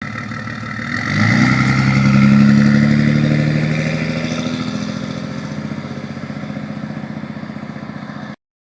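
Cummins 5.9 L turbo-diesel inline-six of a 2005 Dodge Ram 2500 running through a 4-inch down pipe into a 5-inch exhaust with muffler. About a second in the engine picks up revs, then holds there while the sound slowly fades, until it cuts off abruptly near the end.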